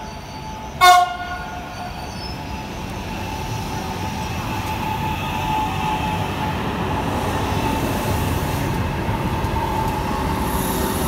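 A Trenitalia Frecce high-speed passenger train sounds one short horn blast about a second in, then runs through the station: wheel and running noise that builds as the cars pass close, with a steady high whine over it.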